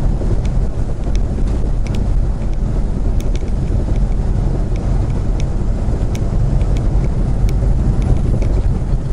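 Steady low road and engine rumble inside a moving car's cabin, with a few faint clicks here and there.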